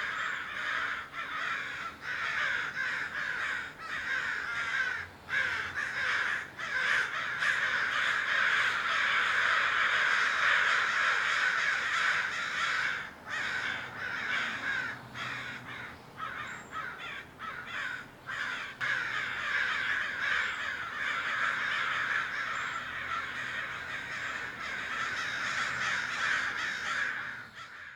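Crows cawing, many calls overlapping in a dense continuous chorus. It is loudest in the middle and fades out at the very end.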